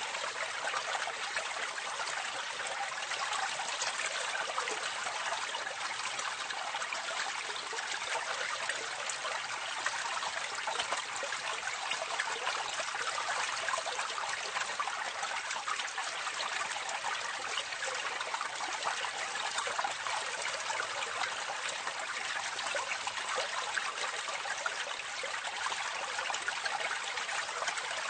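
Water splashing and trickling steadily out of a drain or drainpipe, heard close up: a continuous, even splatter, mostly high in pitch with little low rumble.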